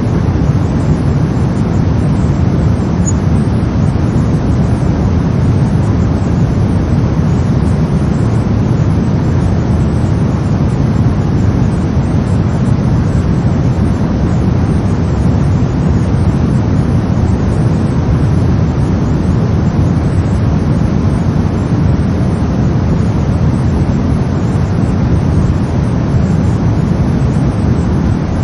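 Steady synthetic brown noise: a deep, even rumbling hiss, heaviest in the bass and thinning toward the treble, with no change or events.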